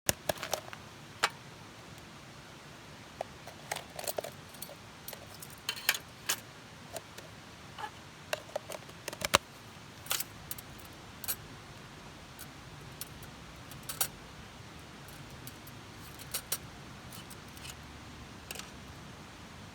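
Scattered sharp clicks and light clinks of small hard objects being handled, most of them in the first half, over a faint steady background.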